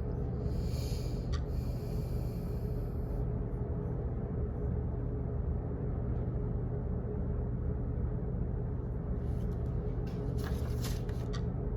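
Steady low office background rumble with a faint constant hum, broken by short bursts of high hiss about a second in and again near the end.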